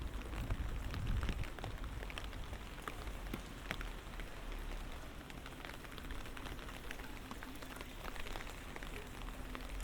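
Light rain falling steadily, with many small drop ticks scattered through the hiss.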